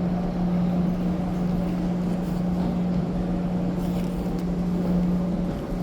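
Steady engine hum of a car ferry under way, heard aboard: one strong, even droning tone over a low rumble.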